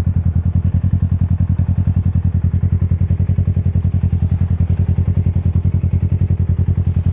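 Motorcycle engine running steadily at low revs with an even, rapid pulsing beat.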